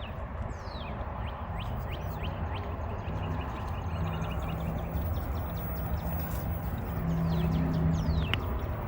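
Small electric motor of an RC crawler truck humming at low speed, louder near the end, with faint clicks and a few high chirping calls over a low rumble.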